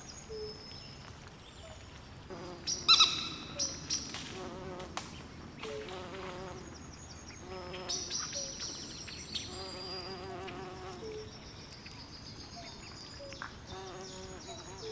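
Swamp night chorus: frogs calling in short, repeated pulsed croaks, over high chirping insects. A louder, higher call stands out about three seconds in.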